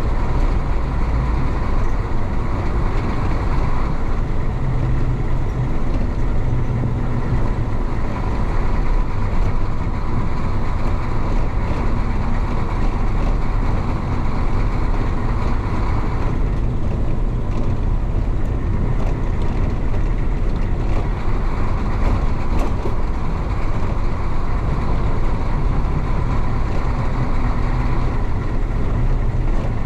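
The 1966 Isuzu BXD30 bonnet bus's DA640 diesel engine running steadily as the bus drives along, heard from inside the bus.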